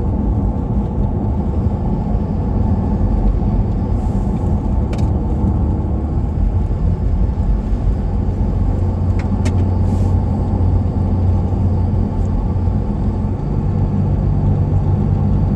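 A truck driving along a highway, heard from inside the cab: the engine and tyres keep up a steady low drone, with a few faint clicks.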